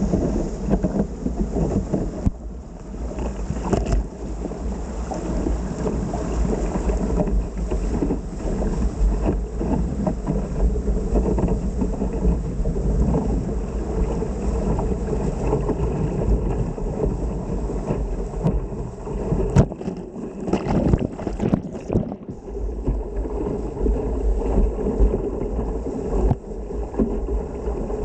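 River rapids: rushing, churning whitewater with a deep rumble and splashing around the boat, mixed with wind buffeting the microphone. About twenty seconds in the sound briefly drops out and sputters before returning.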